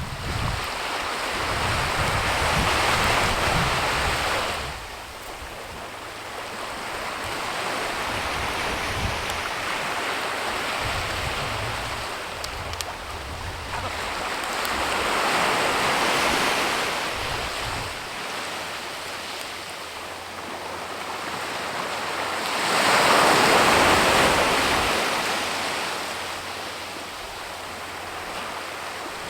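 Gusting wind: a rushing hiss that swells and dies away several times, loudest about three-quarters of the way in. Wind buffets the microphone with a low rumble during the first half or so.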